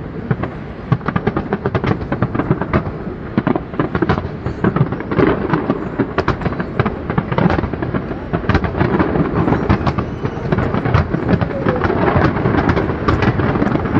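Fireworks display: a dense, continuous barrage of bangs and crackles, several bursts a second.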